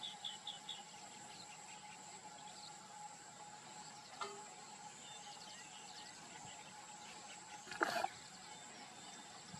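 A bird repeats a short chirp about six times a second, stopping about a second in, over a steady high insect drone. A brief, louder crackle comes about eight seconds in.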